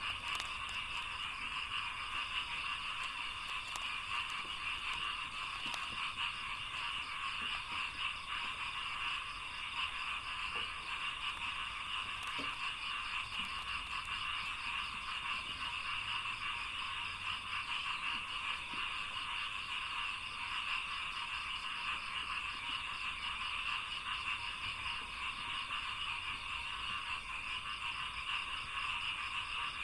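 A dense, steady chorus of many rice-paddy frogs calling together in a continuous, rapid croaking that never breaks.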